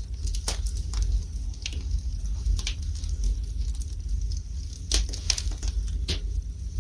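Wood fire burning in a fireplace: irregular crackles and sharp pops from the burning logs over a low steady rumble of the flames.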